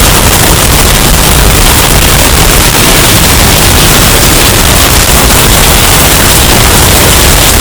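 Hurricane storm sound effect, bass-boosted and overdriven: a steady, very loud, distorted wall of wind noise, with a heavy low rumble and a harsh hiss that never lets up.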